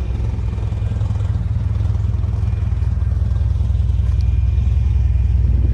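Honda Type R's K24 four-cylinder engine idling low and funky while warming up just after start, its idle air control valve shut off. A steady, even low idle that grows slightly louder toward the end.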